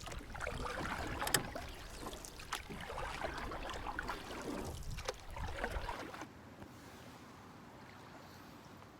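Wind buffeting the microphone over water lapping at the flooded shore, with scattered short chirps and clicks. The wind rumble drops away abruptly about six seconds in, leaving a quieter steady background.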